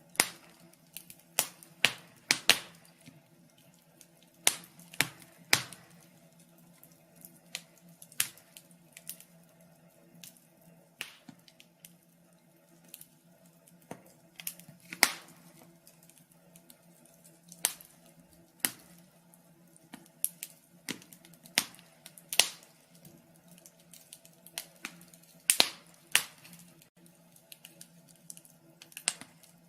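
Fire crackling: irregular sharp pops and snaps, a few every second or two, over a faint steady low hum.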